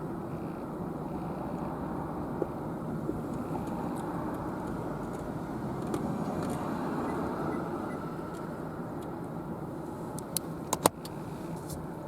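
Car driving at steady speed, with engine and tyre noise heard inside the cabin. Near the end come a few sharp clicks in quick succession, the last one the loudest sound.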